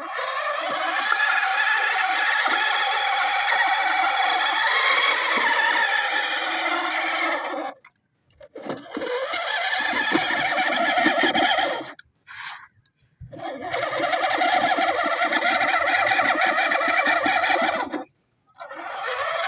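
Massey Ferguson 260 tractor's diesel engine running steadily, heard in three stretches broken by abrupt silent gaps.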